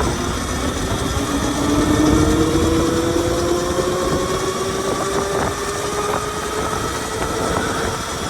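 Qronge X1 Spark electric dirt bike ridden in its aggressive Mode 3: the electric motor's whine climbs steadily in pitch as the bike picks up speed, over a steady rushing noise.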